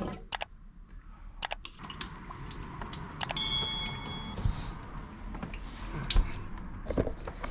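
Handling noises: scattered clicks and knocks, with a short metallic ring about three seconds in.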